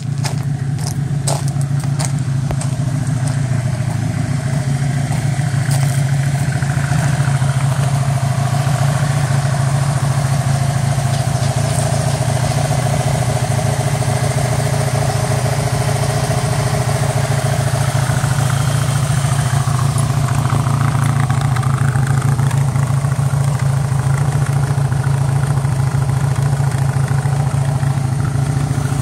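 1983 Honda VF1100's liquid-cooled V4 engine idling steadily, running again after three years of sitting. A few light clicks sound in the first couple of seconds.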